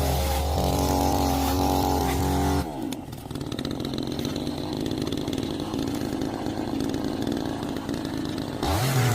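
Chainsaw running at high throttle, dropping to a rough idle about two and a half seconds in, then revving back up near the end.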